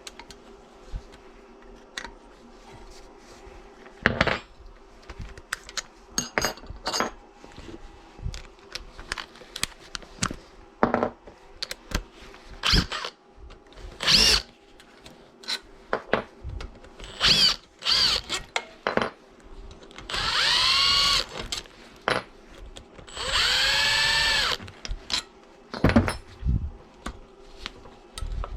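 Power drill run twice, for about one and then two seconds, its motor speeding up and winding down each time. Scattered clicks and knocks of tools and parts being handled come throughout.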